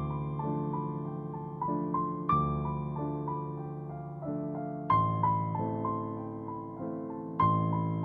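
Soft background piano music: a slow melody of single notes, each fading after it is struck, over deeper notes struck about every two and a half seconds.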